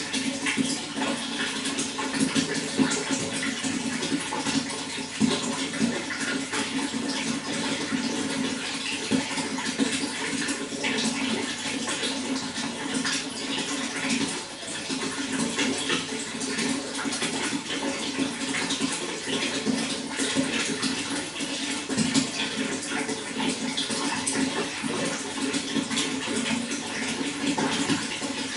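Running water flowing steadily, a continuous splashing rush with many small gurgles and crackles.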